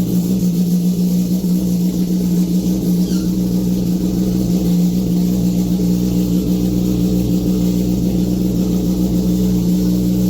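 Kawasaki Ninja ZX10R's inline-four engine idling steadily through an aftermarket Austin Racing exhaust, a deep even burble with no revving.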